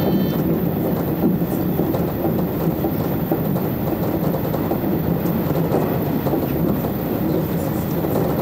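JR electric train running steadily along the rails, heard from inside the front of the car.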